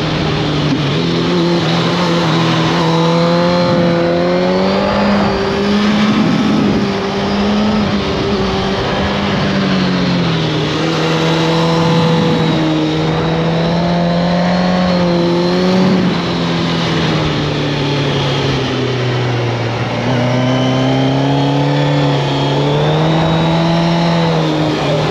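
2003 Suzuki GSX-R1000 K3's inline-four engine running as the bike is ridden through corners, the revs swelling and easing with the throttle. The pitch drops about ten seconds in and again near twenty seconds in as speed comes off, then climbs back up.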